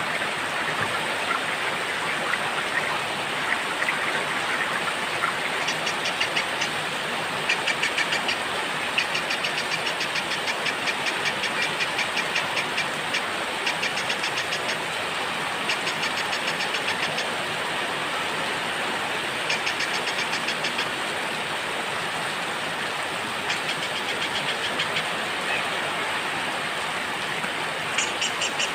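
Steady rain hiss with a small songbird's fast, evenly repeated chip trills laid over it, coming in bouts of one to four seconds from about six seconds in, and again near the end.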